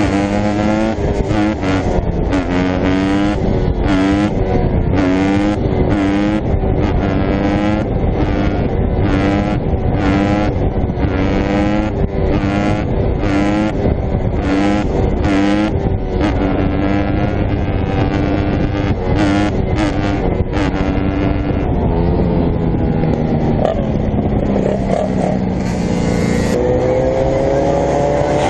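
Dirt bike engine revved over and over, its pitch rising and falling about once a second, then held steadier and rising again near the end.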